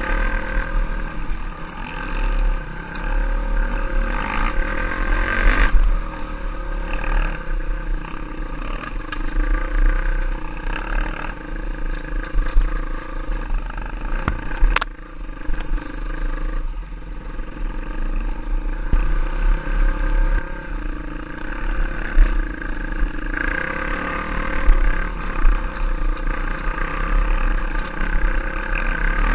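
Off-road trail motorcycle engine running as it is ridden, the revs rising and falling, over a constant low rumble.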